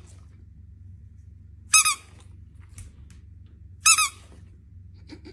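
Short high-pitched squeaks, two of them about two seconds apart, each wavering briefly in pitch, over a faint low hum.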